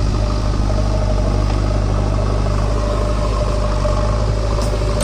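Diesel engine of a JCB 3DX backhoe loader running at a steady speed with a constant low hum.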